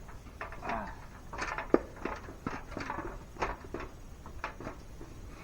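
Irregular knocks, clicks and clatter of feeder parts being handled while a funnel is fitted into a deer feeder, with one sharp click about a second and a half in.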